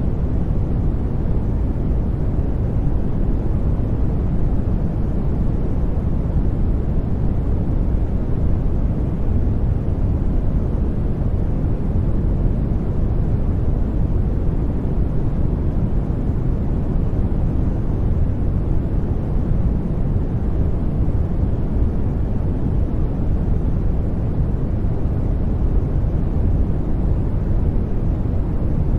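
Steady sleep noise of the kind sold as white noise, deep in tone and unchanging, with no clicks, tones or voice in it.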